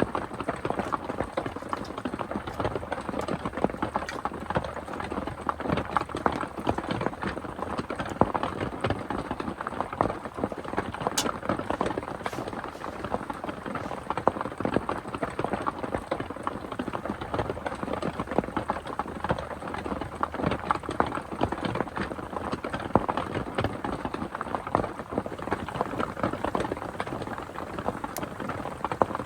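Heavy rain falling steadily, a dense mass of drops striking a surface.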